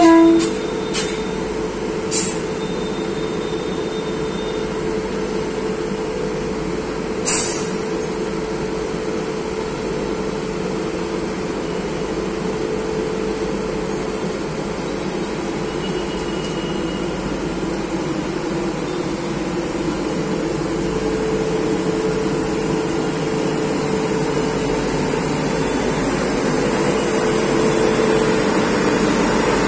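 Departing Indian Railways express train rolling past on the track, a steady rumble with a steady hum, slowly getting louder near the end. Three short sharp knocks sound within the first eight seconds, and a horn note cuts off at the very start.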